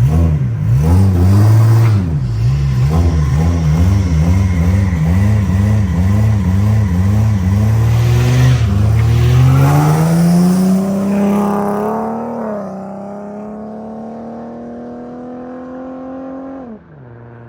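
Car engines revving hard and repeatedly at the start line, rising and falling about twice a second. About eight seconds in, one car launches and accelerates away in a long rising pull. It shifts once and keeps pulling as it draws away, then lets off near the end.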